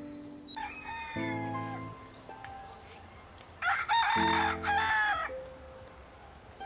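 Two animal calls, a fainter one early and a loud, harsh one about a second and a half long in the middle, over background music with sustained chords.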